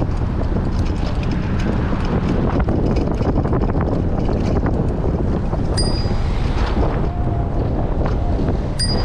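Strong wind buffeting the microphone of a bike-mounted action camera while riding, a loud steady low rumble with many small ticks and rattles. Two short high dings sound about six and nine seconds in.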